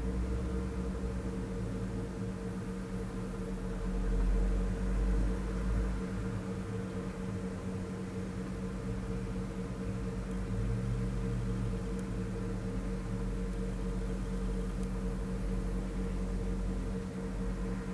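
Bobcat E80 excavator's diesel engine running steadily with a constant hum, its low rumble swelling briefly about four seconds in and again around ten seconds in as the machine works.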